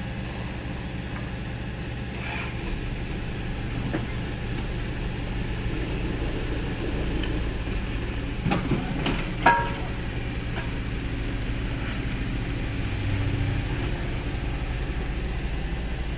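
Heavy diesel engine running steadily, with a few sharp knocks and a short squeal about halfway through.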